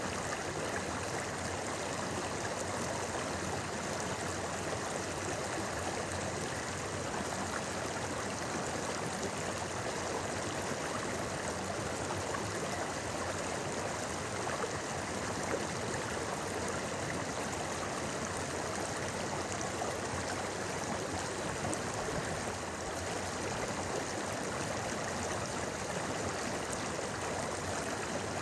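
Shallow stream flowing over rocks, a steady babbling rush of water.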